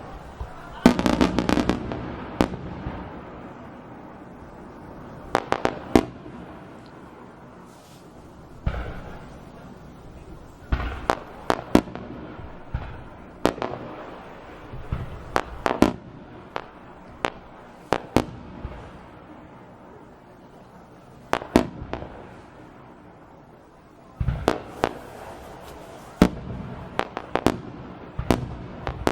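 Aerial fireworks bursting: sharp bangs come singly and in quick clusters at irregular intervals, each followed by a rolling echo. Busier volleys come about a second in, around 11 to 18 seconds, and from about 24 seconds on.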